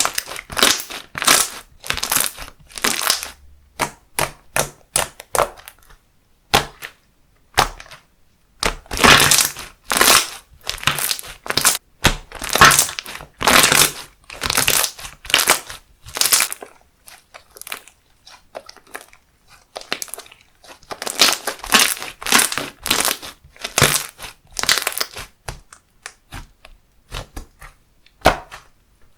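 Handmade slime being squished and pressed by hand: a series of short, noisy squishes, some in quick runs, with pauses of a second or two between runs.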